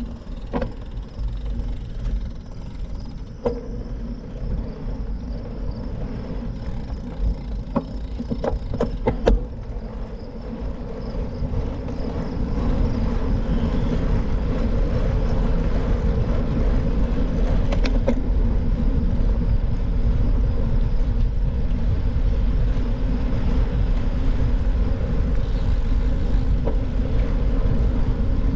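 Wind rushing over the microphone and road rumble while riding a bicycle, with a few sharp knocks in the first ten seconds. About twelve seconds in the rush grows louder and steadier, as with rising speed.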